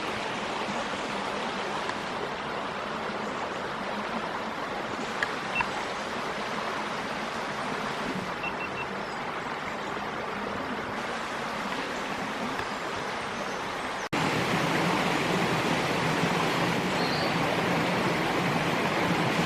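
A rocky stream's water rushing in a steady wash of noise. About fourteen seconds in it cuts abruptly and the rush becomes louder, as from closer to the flowing water.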